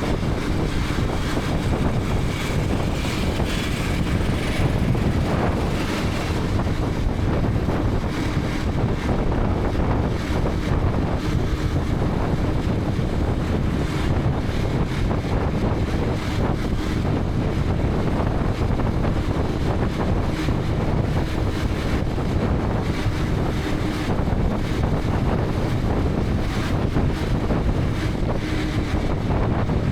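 Steady wind rush buffeting a motorcycle-mounted action camera's microphone, with the KTM 250 Adventure's single-cylinder engine running beneath it at a steady cruise.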